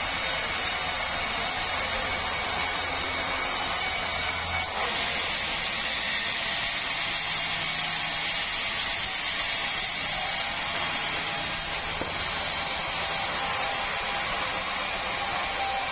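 Power saw running steadily as it cuts through a large meranti log, its sound shifting about five seconds in as the low hum drops away and the cutting noise grows brighter.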